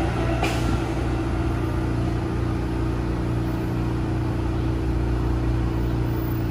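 Steady hum and rumble of an NJ Transit train hauled by an Alstom ALP-45A locomotive pulling away, several even humming tones holding at a constant level.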